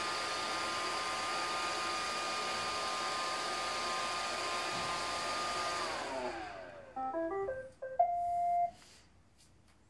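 An iRobot Roomba 620 robot vacuum running steadily, its motors and brushes making a whirring noise. About six seconds in, the motors wind down with falling pitch, and the robot then plays a short tune of electronic beeps that ends on a longer held tone.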